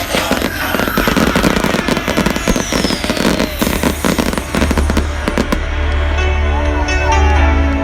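Fireworks crackling and popping in rapid succession, with a falling whistle, over background music; the crackling stops about five and a half seconds in, leaving the music alone.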